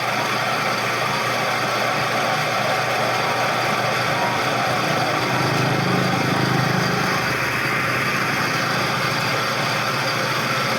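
A powered machine running steadily, its low hum swelling slightly around the middle.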